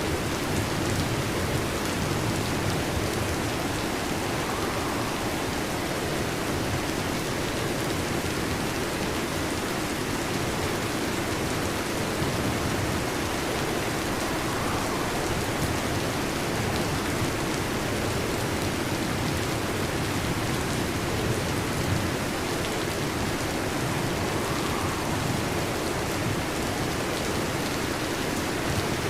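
Heavy rain falling steadily, an even hiss of drops with no pauses or loud events.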